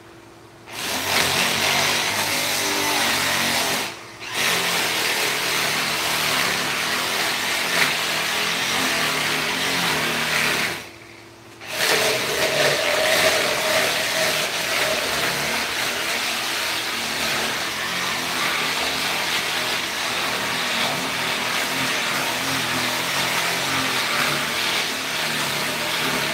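A handheld power tool running under load against wood, with a dense, harsh noise. It stops briefly twice, a short gap about four seconds in and a longer one around eleven seconds.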